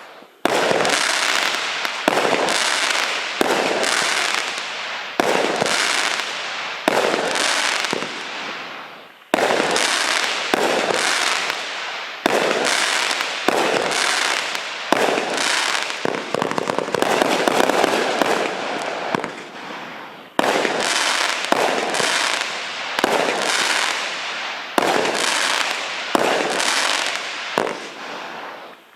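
A 26-shot fireworks barrage cake firing shot after shot, about one a second. Each sharp report is followed by a fading crackle from the crackling dahlia stars.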